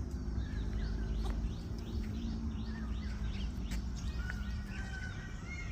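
Birds chirping in rapid, repeated short calls over a steady low rumble of outdoor background noise.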